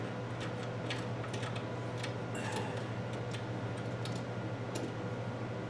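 Scattered light clicks and ticks of small metal parts being handled, over a steady low hum.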